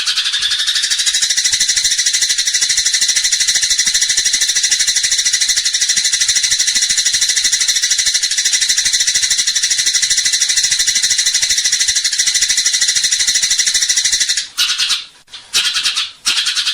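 Eurasian tree sparrow (burung gereja) in fighting mood, giving a fast, unbroken chattering of rapid high chirps. It breaks off for a couple of seconds near the end, then starts again.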